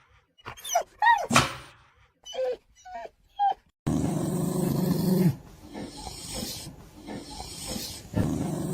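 A dog making short yelping and whining calls that slide in pitch. About four seconds in comes a louder, rough growling stretch lasting about a second and a half.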